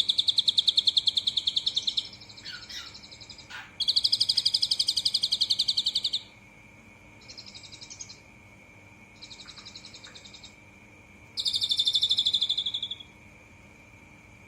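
A cililin songbird singing rapid, rattling trilled phrases in the style of an Asian pied starling. There are loud phrases at the start, about four seconds in, and about eleven seconds in, with softer trills between them. A faint, steady high whine sits underneath throughout.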